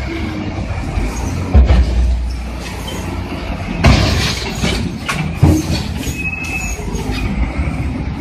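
Bulldozers working: heavy diesel engines rumbling and steel crawler tracks squealing, with three loud clanking impacts about one and a half, four and five and a half seconds in.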